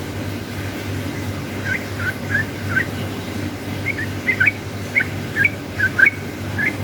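Yellow-vented bulbul (trucukan) singing: short, quick chirping notes in loose bubbly clusters, the loudest near the end, over a steady low hum.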